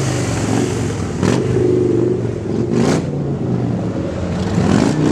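Motorcycle engine with an open exhaust being revved in neutral while standing still. It gives three quick throttle blips, about a second and a half apart, over a steady idle.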